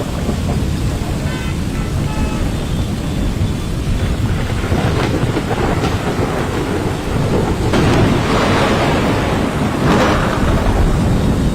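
Heavy monsoon rain pouring down with a constant deep rumble, swelling louder about two-thirds of the way through and again near the end.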